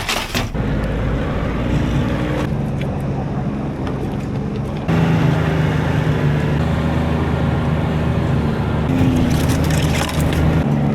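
Ski-doo Expedition LE 900 ACE snowmobile engine running steadily. It gets louder about halfway through, and its pitch rises briefly near the end.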